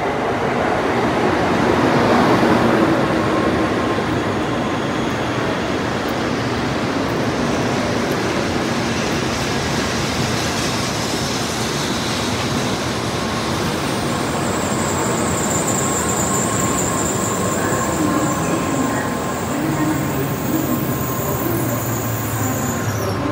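N700A Shinkansen train running into the station along the platform, a continuous rumble and rush of air that is loudest about two seconds in as the front cars pass. About halfway through, a thin high steady squeal joins in as the train slows.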